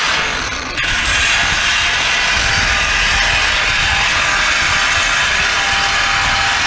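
Power tool cutting through metal scrap, a loud steady grinding rattle that dips for a moment under a second in and then carries on.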